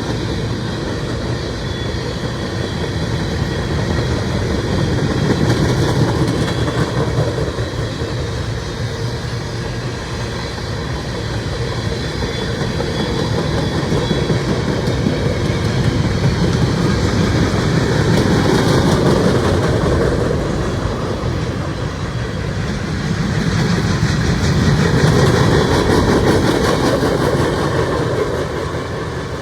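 Freight train cars rolling past at close range, wheels clicking over rail joints in a steady rumble that swells and eases as the cars go by.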